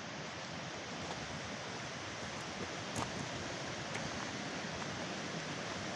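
Steady rushing noise of running water, with a few faint ticks over it.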